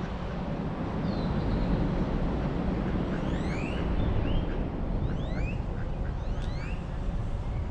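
Birds calling outdoors: many short, rising whistled chirps, several a second at times, over a steady low rumble of background noise.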